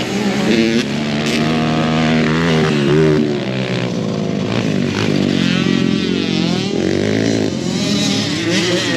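Several small ATV engines racing at once, revving up and dropping off in overlapping rising and falling pitches as the riders work the throttles around the dirt track.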